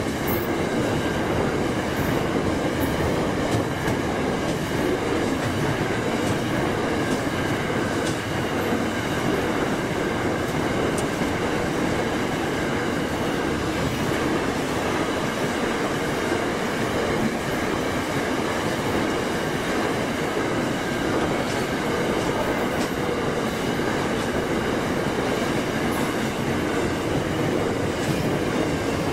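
Container wagons of a long freight train rolling past at close range: a steady rumble of steel wheels on rail, with faint ringing tones and occasional clicks as wheels cross rail joints.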